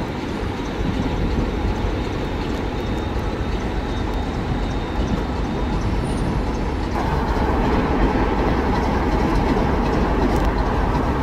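Train running past on the track, a steady loud rumble of wheels on rail with a faint high whine in the first half; about seven seconds in the sound grows brighter.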